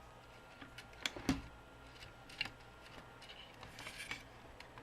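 Faint, scattered clicks and taps of an action figure's plastic body pieces being handled and pressed together, with a couple of sharper clicks about a second in.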